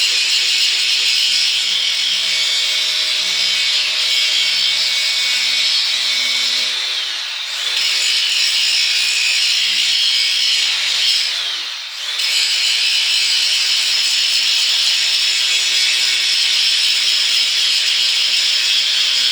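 Cordless angle grinder with a hard grinding disc grinding down the edge of a cast iron anvil: a steady, high, hissing grind. It eases off briefly twice, about seven and a half and twelve seconds in.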